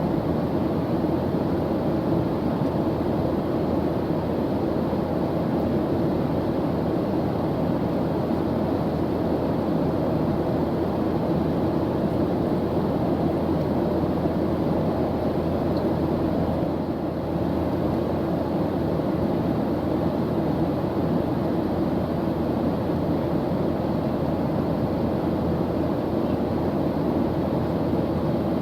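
Airplane engine in flight: a steady, even drone of noise, heaviest in the low and middle range, that does not change.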